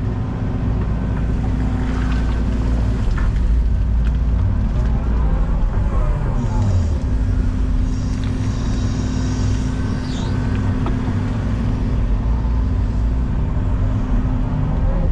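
Excavator's diesel engine running under load, with the hydraulic whine rising and falling as the arm works, and a few short knocks.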